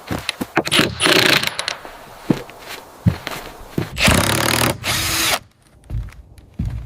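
Power drill running in two short bursts, about a second in and again around four seconds, among scattered knocks and clicks of building work, as beams are fastened in place.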